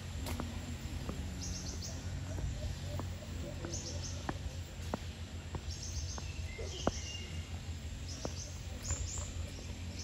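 Small birds chirping in short high bursts every second or two, over a steady low rumble, with scattered faint ticks.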